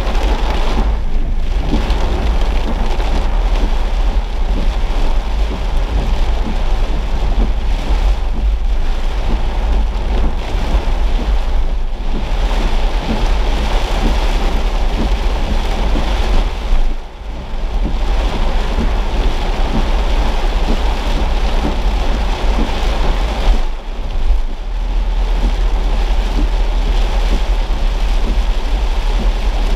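Heavy rain falling on a moving car's windshield and body: a dense, steady hiss with a constant low rumble underneath. The noise dips briefly twice, about 17 and 24 seconds in.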